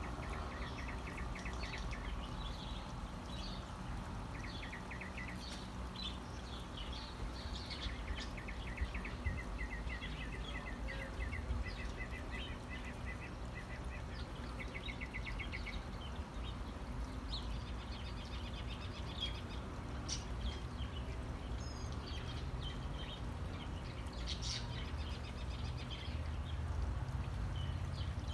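Small birds chirping outdoors, with repeated short, rapid dry trills and scattered high chirps over a steady low background rumble.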